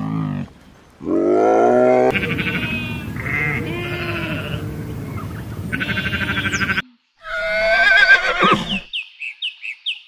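A run of farm animal calls, one after another: several long pitched calls, one rising about a second in, breaking off suddenly about seven seconds in, then a high wavering call followed by short high chirps near the end.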